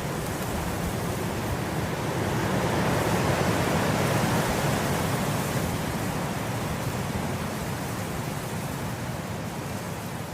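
Wind blowing through grass, a steady rushing that swells to a gust about four seconds in and then slowly eases.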